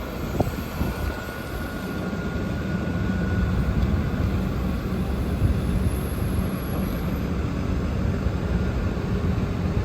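A heavy diesel engine runs steadily with a low rumble, getting a little louder a few seconds in. A faint high whine sounds over it for the first few seconds.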